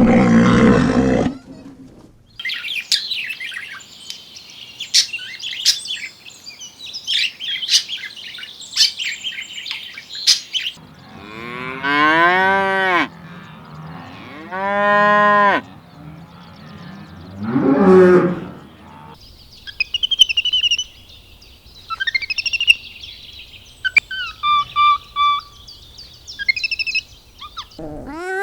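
A run of different animal calls: a loud rough call that cuts off after about a second, then high rapid bird chirping, then two long drawn-out livestock calls that rise and fall in pitch, and a shorter one. Near the end come more chirps and whistled bird notes.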